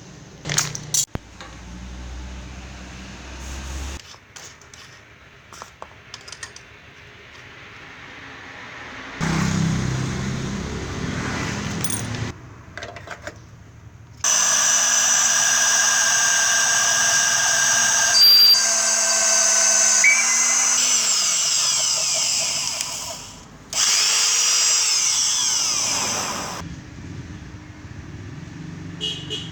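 Restored 1980s Hitachi electric drill, its motor rewound for 220 V, running at full speed: a loud steady motor whine for about nine seconds, a brief break, then a few seconds more before it winds down with falling pitch. Earlier, a few clicks and a shorter, rougher burst of motor noise.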